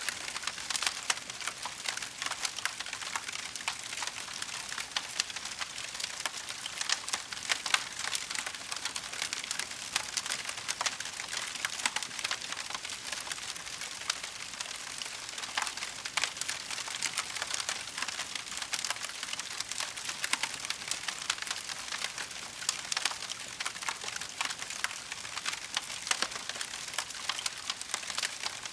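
Wood fire crackling steadily, a dense run of small pops and snaps with an occasional louder crack.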